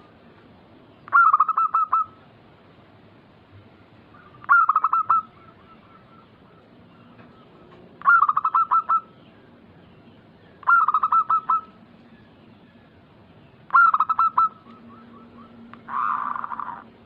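Zebra dove (perkutut) cooing: five short phrases of rapid stuttering coos, each under a second, spaced about three seconds apart, then a softer, less clear call near the end.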